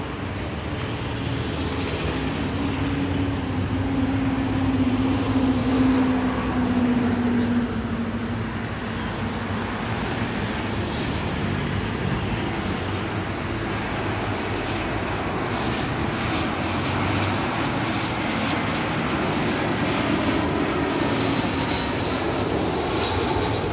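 Airbus A321 jet engines droning as the airliner passes on its arrival into Manaus, the pitch falling and loudest about five to seven seconds in, over steady road traffic.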